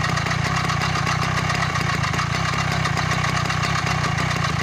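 Yamaha Jog 2JA scooter's 50 cc two-stroke engine idling steadily. A newly fitted cylinder and piston are being run in at idle.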